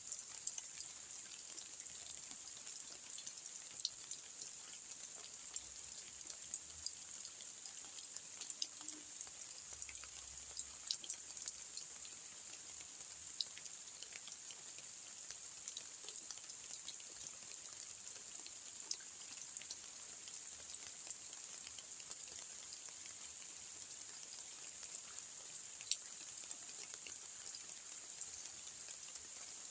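Steady rain falling, a high hiss with many scattered drops ticking on a surface and a few louder individual drop hits.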